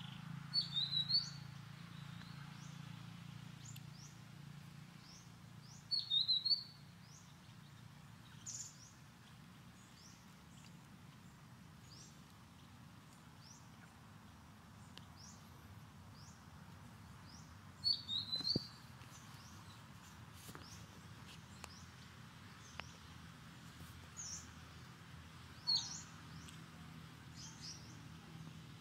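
Wild forest birds chirping throughout with short, high down-slurred calls, and a louder quick run of high notes about a second in, at 6 s, at 18 s and near the end. A faint steady low hum lies underneath.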